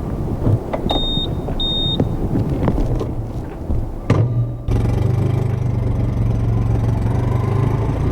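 Honda Super Cub C125's air-cooled 125 cc single-cylinder engine on its stock exhaust, started a little after the middle and then idling steadily. Two short high beeps sound about a second in.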